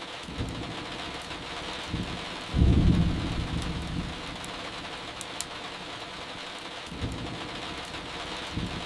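Steady rain with a low thunder rumble that comes in loudly about two and a half seconds in and fades over a couple of seconds, then builds again near the end. Faint crackling from burning firewood ticks over it now and then.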